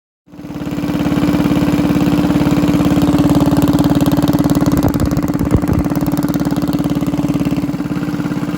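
Stage 2 Predator 212 single-cylinder engine on a mini bike, governor removed and fitted with a hot cam, running steadily at a low, even speed. A couple of brief knocks come about halfway through.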